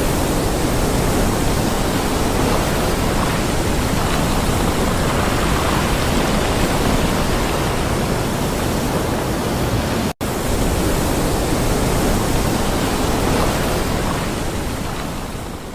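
Steady, loud rushing noise with no distinct events. It cuts out for an instant about ten seconds in and fades away near the end.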